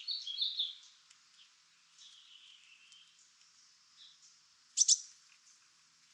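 Wild birds calling: a quick run of high chirps in the first second, a softer warbling call around two seconds in, and a short, sharp, loud call a little before five seconds.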